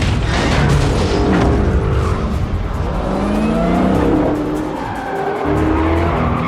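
Film car-chase soundtrack: car engines revving up and down, with tyres skidding, over dramatic music.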